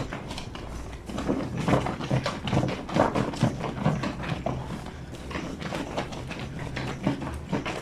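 A wet blanket being scrubbed and slapped by hand on the ridged granite washboard of a lavadero: a busy, irregular run of soft wet thuds and rubbing strokes, with a faint steady hum beneath.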